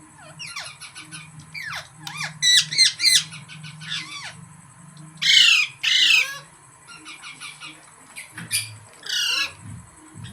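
Green parrot squawking and chattering: short chirps and quick trills, two loud harsh squawks about halfway through, and another squawk near the end.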